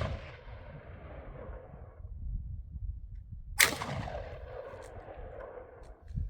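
A single gunshot about halfway through, a sharp crack followed by an echo that trails off over about two seconds. At the start, the echo of a previous shot is still dying away.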